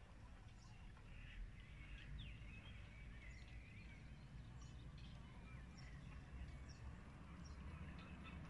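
Faint small-bird chirps and short whistled calls, scattered throughout, over a low steady rumble.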